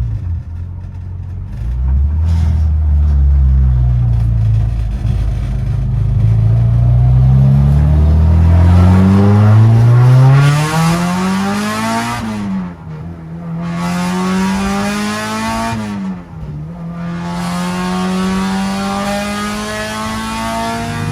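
Honda K20 inline-four running through a 3-inch exhaust with a resonator and no muffler, pulling hard under acceleration. The engine note climbs steadily, dips sharply twice at gear changes, and keeps rising after each.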